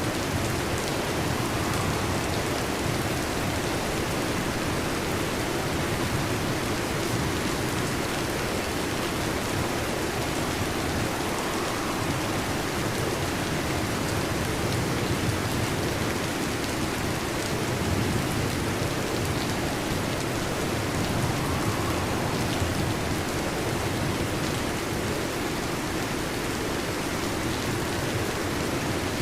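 Steady heavy rain falling, an even hiss with only slight swells and no distinct thunderclaps.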